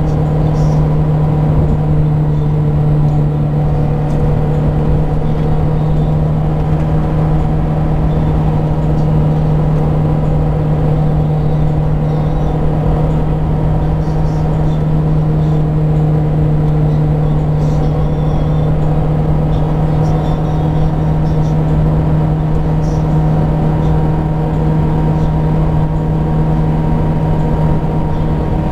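Mazda Miata's four-cylinder engine running at a steady 4,600 rpm or so while cruising at about 57 mph: an even, constant drone, edging up only slightly in revs.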